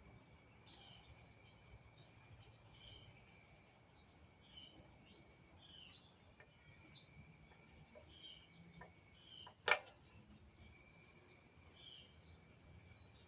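Faint steady insect chirring, two high thin tones held throughout, with scattered short chirps over it. A single sharp click sounds a little before ten seconds in.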